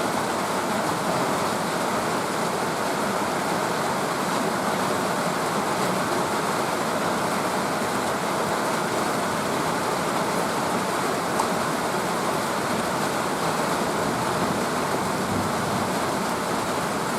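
Summer rain falling steadily, an even rushing hiss with no breaks.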